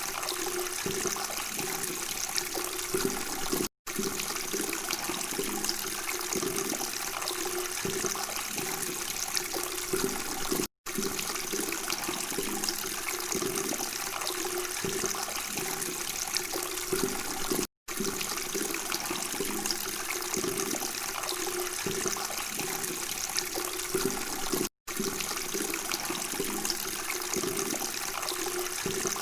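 Steady babbling, gurgling water, cutting out completely for a split second four times at even intervals of about seven seconds, as a repeated recording loops.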